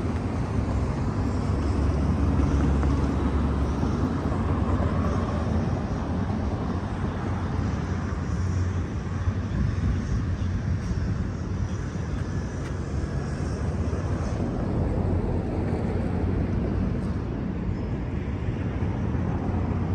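Steady low rumble of background noise, with no distinct knocks, tones or voices.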